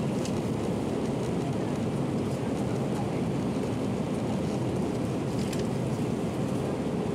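Steady cabin noise inside an Airbus A319-131 airliner in flight: an even rush of engine and airflow noise with no changes, and a few faint ticks.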